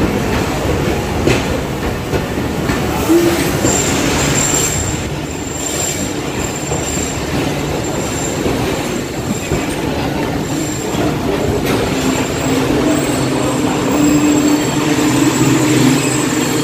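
Passenger train rolling along the station track, its wheels and cars rumbling steadily, with a thin high wheel squeal setting in about four seconds in.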